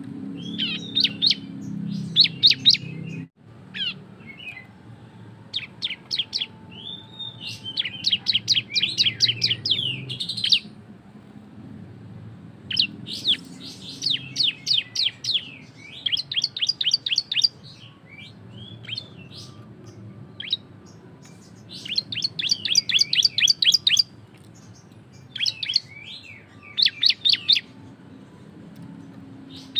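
Ciblek (prinia) singing in the rapid 'ngebren' style: loud phrases of fast, sharp, high chip notes run together into trills, each a second or two long with short pauses between, over a low steady hum. The sound drops out briefly about three seconds in.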